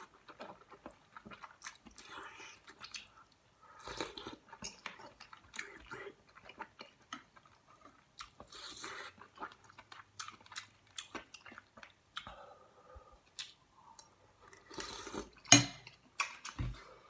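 A person eating kimchi stew close to the microphone: irregular chewing and biting with wet mouth clicks, and one sharper knock a little before the end.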